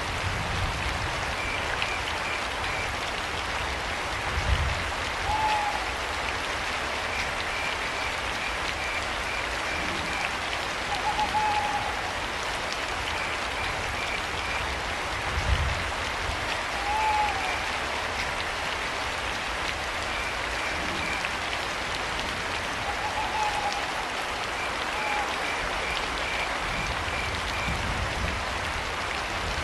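Steady rain with crickets chirping in short bursts of rapid pulses. An owl gives a short hoot every few seconds, and there are a couple of low thumps.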